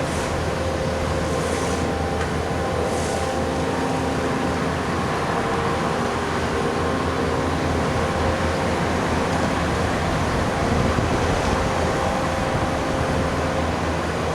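Bobcat skid steer loaders with hydraulic road attachments (a cold planer and a sweeper) running steadily, diesel engine and hydraulic whine over a constant grinding noise.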